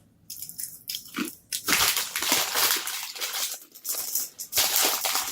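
Close-up crunching and chewing of a crispy snack, in repeated bursts that grow louder about two seconds in.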